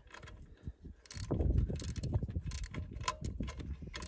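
Socket ratchet wrench clicking rapidly as a bolt is tightened on the alternator mounting, starting about a second in.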